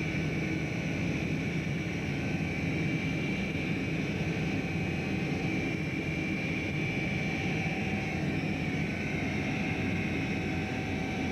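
Steady drone of a fishing boat's engine and machinery heard on board, unchanging in level.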